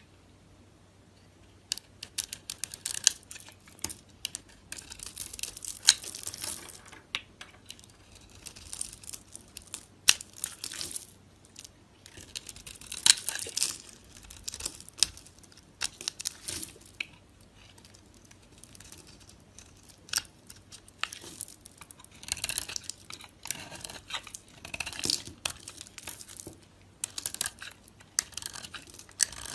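Knife cutting into dry soap: crisp crunching and scraping with sharp crackles, coming in irregular runs with short pauses, starting about two seconds in.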